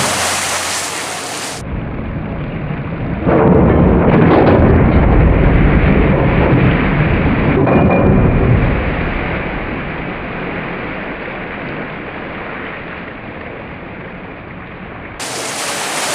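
Large sluice gate closing, with a sudden loud, deep rumble about three seconds in that holds for several seconds and then slowly dies away.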